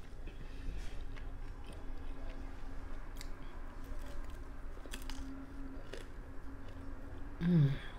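Close-up mouth sounds of a person biting and chewing homemade pizza, with small wet clicks and crackles throughout. Near the end comes a brief voice sound from the eater that falls in pitch.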